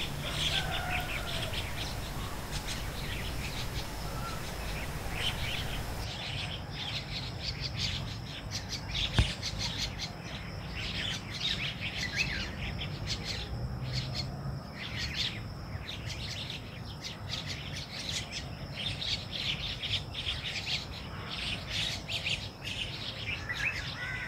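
Songbirds chirping, many short overlapping calls in quick succession, growing busier a few seconds in.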